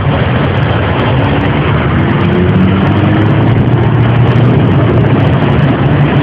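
A vehicle driving through deep standing floodwater: the engine runs under load beneath a loud, continuous rush of splashing water, its pitch rising slightly a second or so in.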